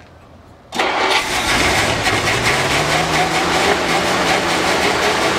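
A long-sat barn-find Ford Thunderbird engine fires up suddenly about a second in, catching on its first attempt after sitting. It revs up over the next couple of seconds and then keeps running fast and hard.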